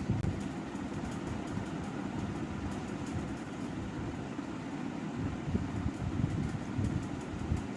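Thin cotton towel (gamchha) rubbing wet hair close to the microphone, a continuous rough, rumbling rubbing that comes and goes unevenly.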